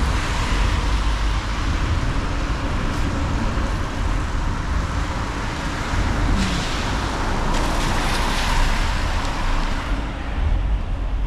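Harley-Davidson motorcycle riding at road speed: a steady rush of wind and road noise over a strong low engine rumble.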